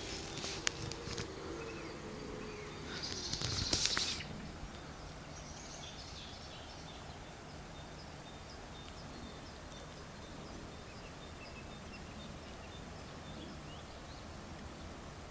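A low, pitched animal call with a few clicks in the first second or so, which the uploader likens to a bear. A louder rustling hiss follows about three to four seconds in, then steady background noise with faint bird chirps.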